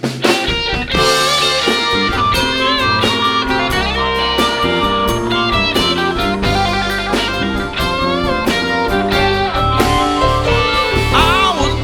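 Live band playing the opening of a blues-rock song: electric guitar lead over a steady bass line and drum kit.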